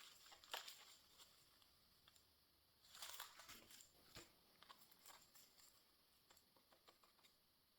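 Near silence with a few faint rustles and clicks of tissue paper being handled, the clearest about half a second in and around three to four seconds in.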